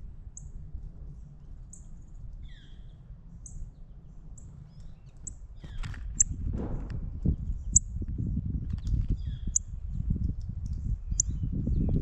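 Small birds chirping around a feeder: a short, very high chip repeated roughly once a second, with a few lower chirps between. A low rumbling noise grows louder about halfway through.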